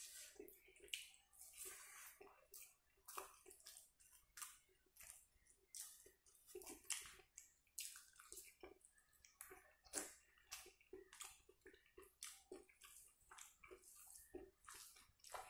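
Faint, wet chewing and lip-smacking as rice and pork fat are eaten by hand, mixed with squelches of fingers working rice and pork gravy, in quick irregular smacks and clicks.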